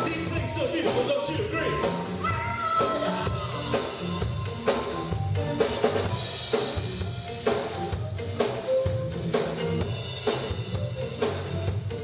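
Live band playing a song with a full drum kit, snare and bass drum keeping a steady beat under pitched instruments.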